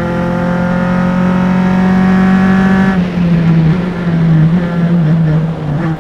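Single-seater race car engine at high revs under load, its pitch easing slightly, then dropping to lower revs and wavering about halfway through as the driver comes off full throttle.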